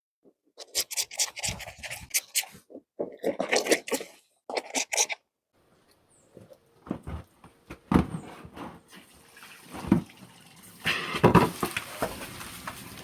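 A few seconds of loud, broken bursts of sound, then water running and splashing from an outdoor pipe with scattered knocks, the flow growing stronger near the end.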